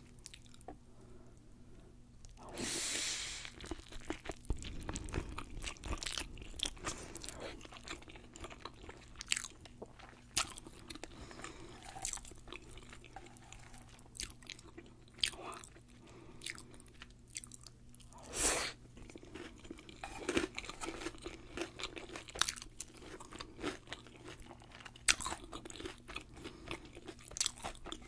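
Close-up chewing of a deep-fried sushi roll, with many short, sharp crunches of the fried batter coating between softer wet chewing sounds.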